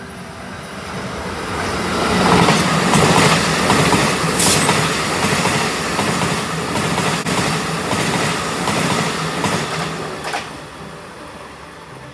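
A train passing close by: its rumble builds over the first couple of seconds, holds loud with the wheels clattering over the rail joints, then fades away near the end.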